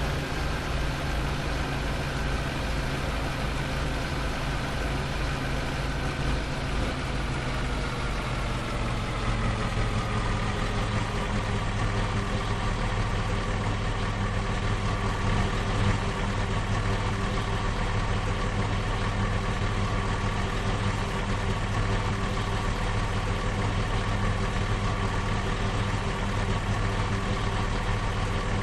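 Ford Ranger pickup's engine, its pitch falling over the first ten seconds or so as it slows, then running steadily at idle.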